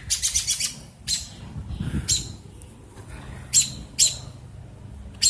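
Female American robin giving sharp, high alarm calls: a quick run of notes at the start, then single calls about once a second. These are the scolding calls of a robin defending her nest against an intruder.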